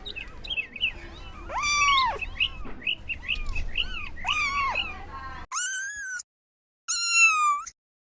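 Kittens meowing: two high arched meows over a background of small high chirps, then, after the background cuts out about five and a half seconds in, two higher, drawn-out meows.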